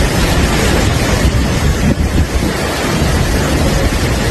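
Strong storm wind blowing hard across the microphone: a loud, steady rush of wind noise.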